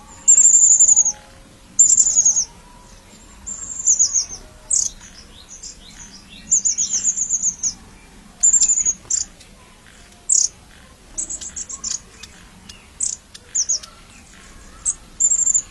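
Bird calling: short, very high-pitched phrases of rapid notes, repeated about a dozen times with pauses between.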